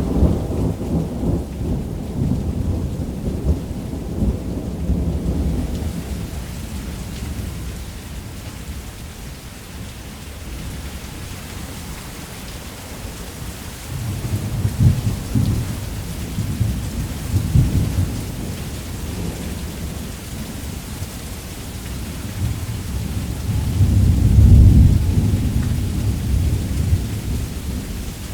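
Heavy rain falling steadily on a roof while thunder rumbles: a long rumble at the start that fades out, another about halfway through, and the loudest near the end.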